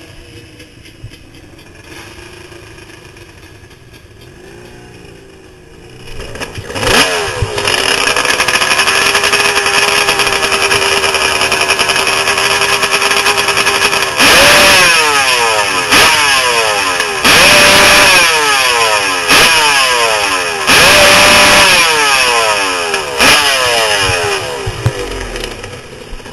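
Kawasaki KX dirt bike engine revved hard while stationary. It comes up about six seconds in and is held at a steady high pitch for several seconds. Then it is blipped about six times, each rev rising sharply and falling back, before easing off near the end.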